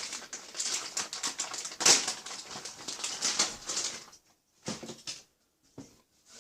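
Irregular clicking, rubbing and rustling as a rubber crawler tire with its foam insert is worked by hand onto a plastic RC short course wheel, with a sharper knock about two seconds in. The handling sounds thin out to a few isolated taps after about four seconds.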